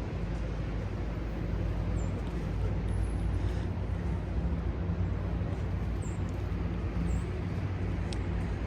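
City street noise with a steady low engine hum, as of a vehicle running close by; a few faint short high chirps come through now and then.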